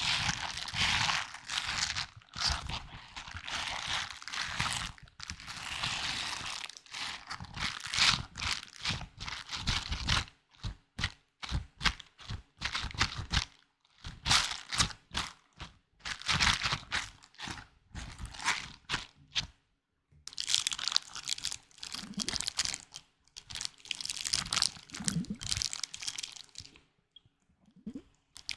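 Close-up ASMR handling sounds: irregular crinkling and crunching of an object worked by hand, in bursts of a few seconds broken by short pauses.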